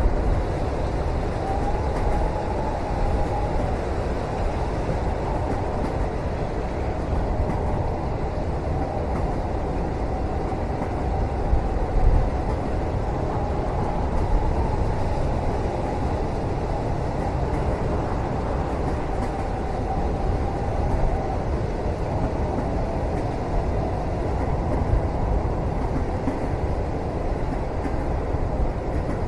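Steady rumble of a moving train heard from inside a passenger cabin, heaviest in the low end, with a faint wavering whine that comes and goes.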